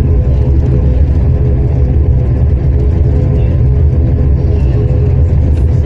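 Bahamasair turboprop airliner's engines and propellers running steadily while taxiing: a loud, even low drone with a faint steady hum above it.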